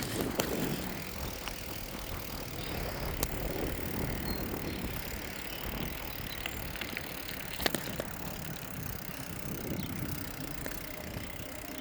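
Bicycle being ridden: a steady low rumble of tyres and air, with a few sharp clicks and knocks from the bike, the loudest a little past halfway.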